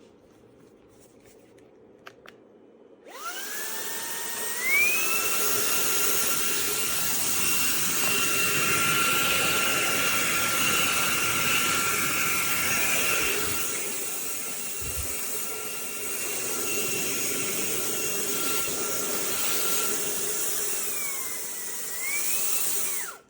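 Cordless handheld vacuum switched on about three seconds in. Its motor spins up in two steps to a steady high whine with a rush of air. Near the end the pitch dips and climbs back, then the motor cuts off suddenly.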